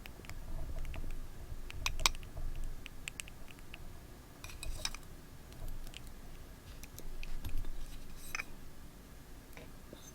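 Paper and stationery being handled on a desk: scattered light taps, clicks and soft rustles, with a quick run of small clicks about halfway through.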